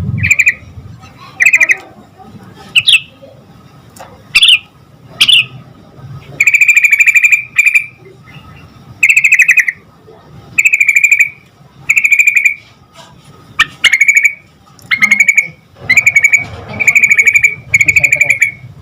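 Yellow-vented bulbul (trucukan) singing: short phrases of fast, even notes, repeated about every second and a half, with a few quick upward-sweeping calls in the first half.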